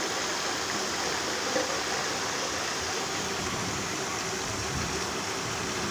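Steady rain falling, an even hiss, with one brief soft tap about one and a half seconds in.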